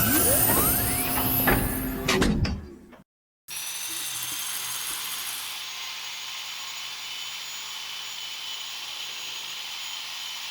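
Workshop machine-tool sounds: a loud whirring for about three seconds with a pitch that rises, then after a sudden cut a quieter, steady high whine of a machine running.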